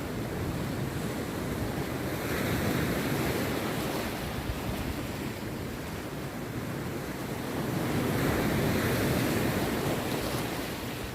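Rough sea surf breaking and washing onto the beach, swelling twice as successive waves come in.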